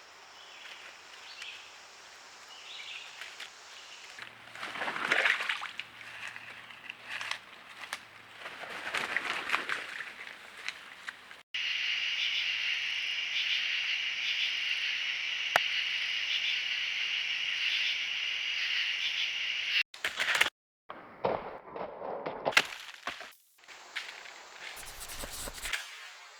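Rustling and footsteps in forest leaf litter, broken in the middle by a steady high-pitched insect chorus lasting about eight seconds. The sound cuts off abruptly several times as one short clip gives way to the next.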